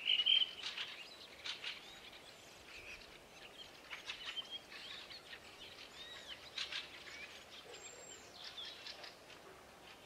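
Wild birds chirping and calling in short, scattered high notes, the loudest right at the start.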